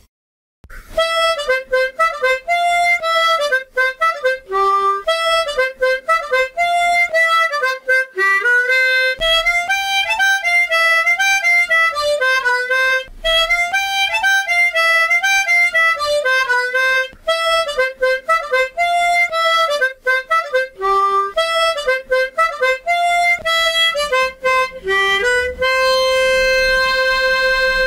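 Tremolo harmonica in C playing a lively bagpipe-style folk melody note by note, ending on a long held note.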